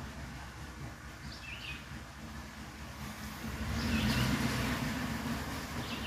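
A songbird giving short chirping calls, about one every two seconds, over a steady low rumble that grows louder around the middle.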